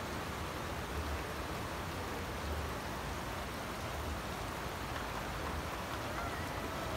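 Steady rain falling on the ground and plants, an even hiss.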